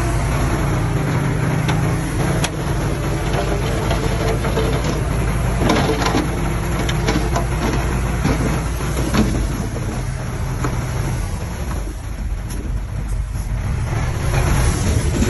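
Diesel engine of heavy earthmoving machinery running steadily, with a few scattered knocks and clanks.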